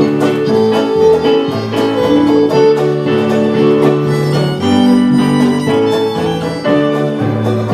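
Fiddle playing a tune with a band backing it.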